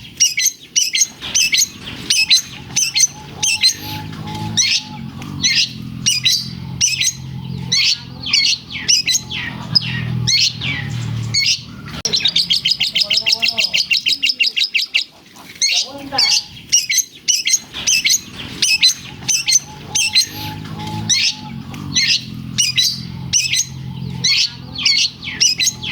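Long-tailed shrike (cendet) singing vigorously: a fast, unbroken run of sharp chirps mixed with mimicked lovebird calls, with a rapid buzzing trill of about three seconds near the middle. A low hum sits underneath at times.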